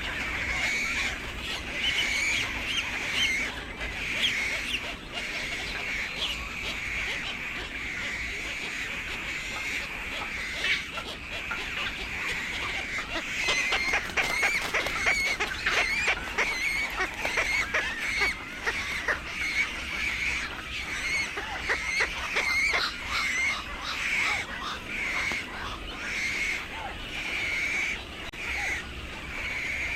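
Birds calling: short calls repeated about once a second, with a stretch of rapid clicking chatter around the middle.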